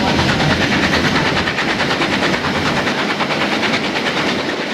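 Harz narrow-gauge steam train running, heard from on board: wheels clattering over the rails in a fast, steady rhythm. The low rumble eases about three seconds in.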